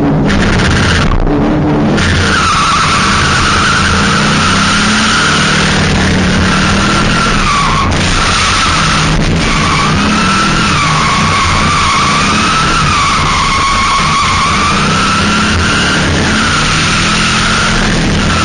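A drift car sliding with its tyres squealing loudly and continuously over its running engine. The squeal starts about two seconds in and wavers in pitch as the slide goes on, then fades near the end.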